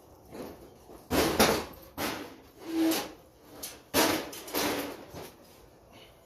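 Metal fluorescent light fixture parts being handled and pulled apart: a series of sliding scrapes and clunks, about half a dozen within a few seconds.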